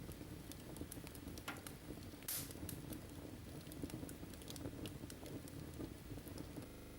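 Wood fire in a fireplace crackling, with scattered small clicks and pops over a low rumble and one louder pop about two seconds in.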